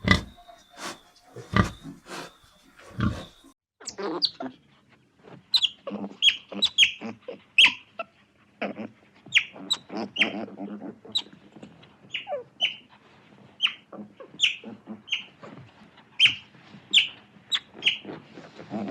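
Several short, loud, low animal calls for the first three seconds or so, then a run of short, high, falling chirps from birds, about two a second.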